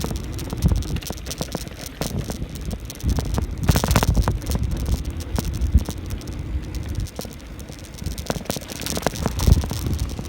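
Bicycle ridden over a bumpy trail: the bike rattles with many irregular clicks and knocks, over a steady low rumble of tyres and wind on the microphone.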